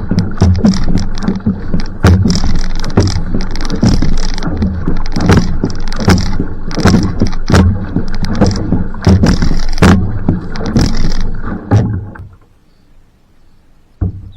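Outrigger canoe paddled hard at sprint pace: repeated paddle strokes splashing and pulling through the water over a steady rush of water. Near the end the strokes stop and it goes quiet, then a single knock.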